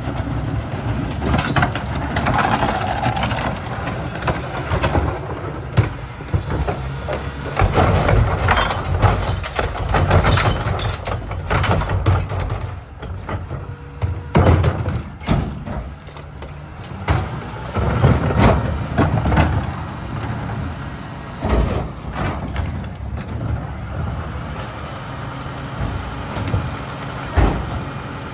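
Mack rear-loader garbage truck running, with repeated clanks and bangs and swells of noise as refuse is loaded and compacted. A short air hiss comes about six seconds in.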